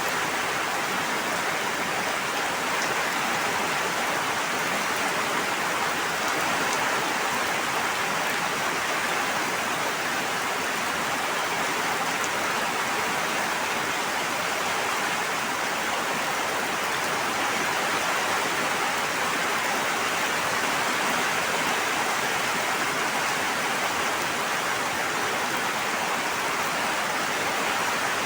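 Steady, unbroken rushing of water at an even level, with no pauses or surges.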